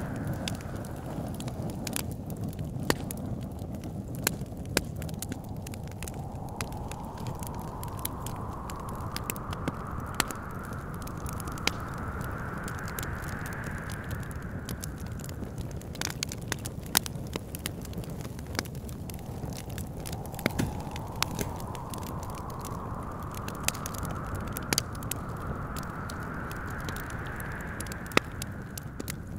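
Wood fire crackling with scattered sharp pops, over a steady low rumble of wind. Twice a whistling gust of wind rises slowly in pitch over several seconds, then fades.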